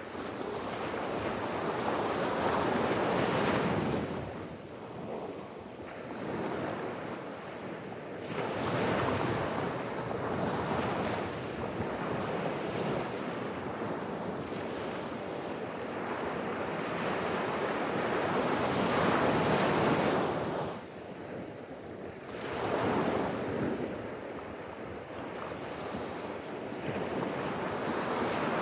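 Pacific Ocean surf: waves breaking and washing up the shore in slow surges that swell and fade every several seconds, with wind buffeting the microphone.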